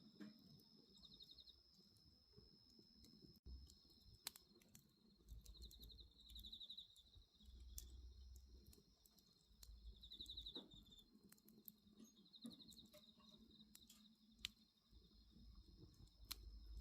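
Faint bonfire crackling, with a handful of sharp pops a few seconds apart, over a steady high chirping of insects that swells into short pulsed trills three times. A low rumble sits underneath.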